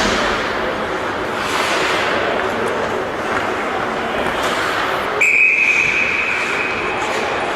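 Referee's whistle blown once in a single long, steady blast of about two seconds, starting about five seconds in, over a steady background of game and crowd noise.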